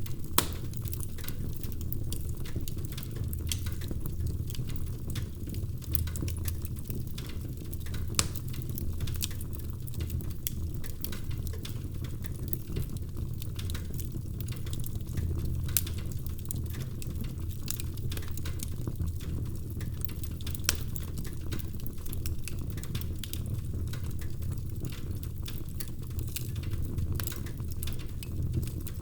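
Wood fire in a fireplace crackling, with a steady low roar of the flames and frequent sharp pops, a few of them louder.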